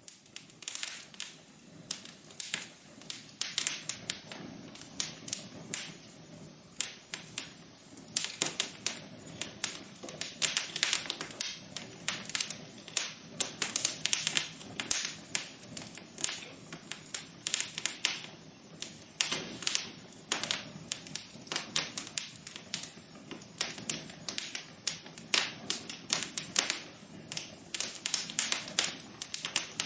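Wood fire crackling in a fireplace: a dense, irregular run of small crackles with sharper pops scattered through it.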